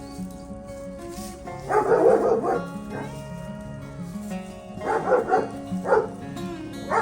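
Three-week-old German Shepherd puppy barking and yipping in four short bursts, the first and longest about two seconds in, over background acoustic guitar music.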